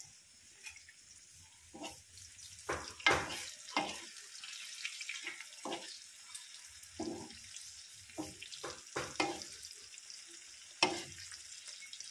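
Pork, onion and tomato frying in a pan with a steady high sizzle, while a metal spoon stirs it, scraping and knocking against the pan at irregular moments, most sharply about three seconds in and near the end.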